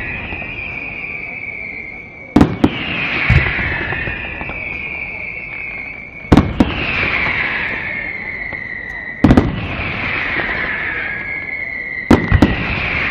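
Aerial fireworks display: shells bursting in quick pairs of sharp bangs about every three seconds. Each pair is followed by a couple of seconds of crackling hiss that falls slightly in pitch.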